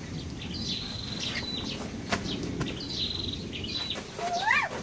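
Small birds chirping in short, high trills that repeat every second or two over a background hiss. Near the end comes a short animal cry that rises and falls in pitch.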